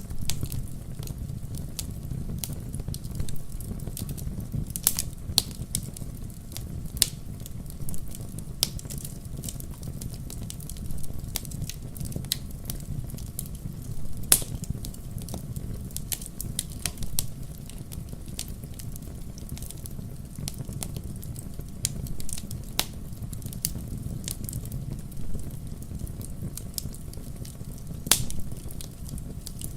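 Fire in a fireplace crackling: irregular sharp pops and snaps over a steady low rumble of flames. One snap, about fourteen seconds in, is louder than the rest.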